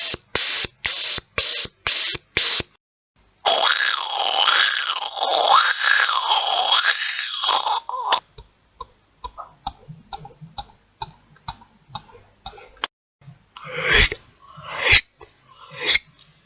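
A person making mouth and throat noises. First comes a quick run of hissing puffs, about three a second. Then a long hissing sound swoops up and down in pitch, followed by a string of quick clicks and a few louder bursts near the end.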